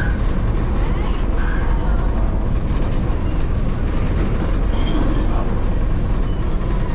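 Steady low engine rumble, with faint voices in the background.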